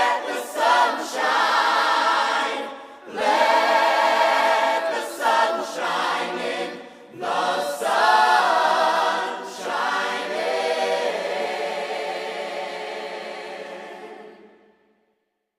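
A choir singing several short phrases, then a final held chord that fades out just before the end.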